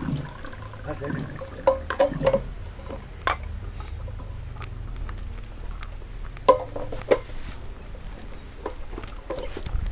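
Drinking water being poured and glasses or cups set down, with scattered short clinks and knocks.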